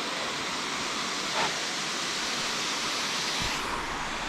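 Waterfall rushing: a steady, even hiss of falling water. A brief louder sound rises over it about a second and a half in, and near the end the hiss thins as a low rumble comes in.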